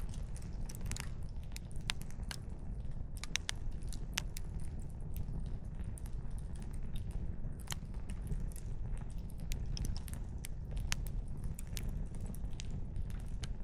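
Wood fire crackling: burning firewood gives off frequent, irregular sharp pops and snaps over a steady low rumble.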